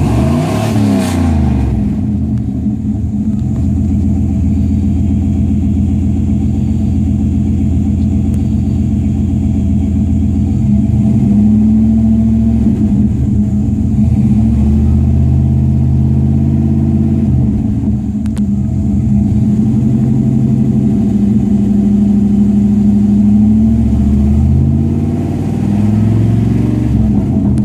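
Chevrolet 7.4 L 454 big-block V8 running through a Flowmaster 40 series single-in, dual-out muffler. A short rev falls back at the start, and the engine speed shifts up and down a few times after that.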